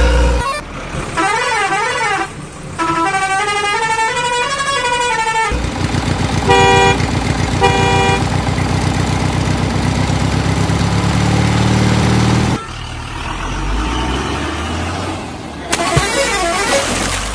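A string of vehicle sound effects. For about five seconds, warbling tones rise and fall. Then a steady engine rumble runs, with two short horn honks about a second apart, and gives way to a rougher rumble near the end.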